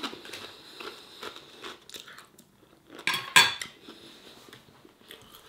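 Close-up mouth sounds of a person chewing a crisp poppadom, with soft crunching and small crackles, and one louder, short burst of noise a little after three seconds in.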